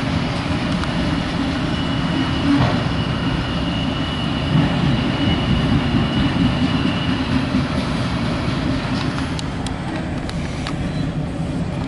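Loaded autorack freight train rolling by, a steady rumble of wheels on rail. A faint high steady whine runs over the first several seconds, and a few sharp clicks come near the end.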